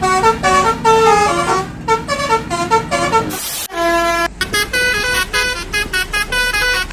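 Basuri telolet musical air horn on a bus playing a quick tune of short toots at changing pitches. About halfway through there is a brief hiss and then one longer held note. A low steady hum sits under the first half.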